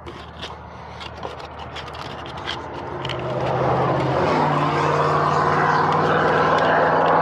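Heavy truck diesel engine building revs and pulling under load: it grows louder over a couple of seconds, the pitch steps up partway through, and it then holds a steady, loud drone. A few scattered clicks and scrapes come before it.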